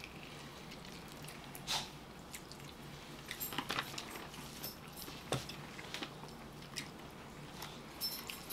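People eating rotisserie chicken by hand: scattered short wet clicks of chewing and of meat and skin being pulled off the bone, over a faint steady low hum.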